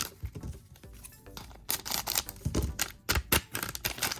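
Trading cards being flipped and slid through the hands, two quick clusters of crisp clicks, over quiet background music.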